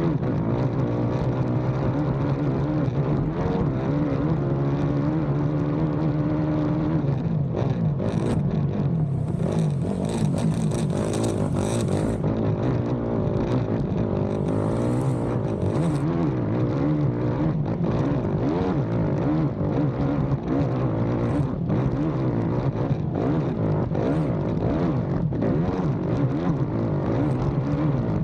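Racing ATV engine heard from on board, running hard and rising and falling in pitch with throttle and shifts, with knocks from the machine over rough ground. Bursts of hiss come in about a third of the way through and again shortly after.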